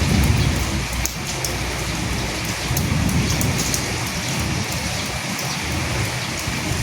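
Steady heavy rain: an even hiss with many sharp drop ticks, over a low rumble that swells at the start and again about three seconds in.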